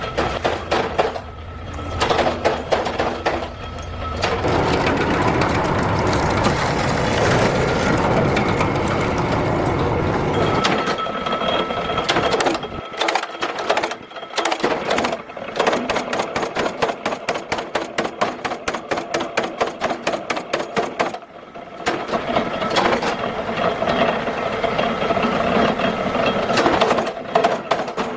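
Workshop machinery running: a steady mechanical run, then long stretches of rapid, evenly repeated mechanical strokes, broken by a few short pauses.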